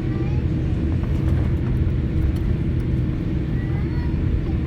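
Steady low rumble of an airliner cabin on the ground before takeoff, from the engines and air system, with faint voices over it.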